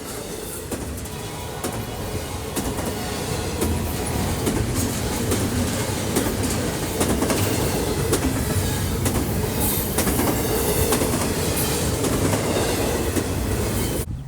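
Train rolling past, its wheels clicking over rail joints over a steady rumble that grows louder over the first few seconds. The sound cuts off abruptly just before the end.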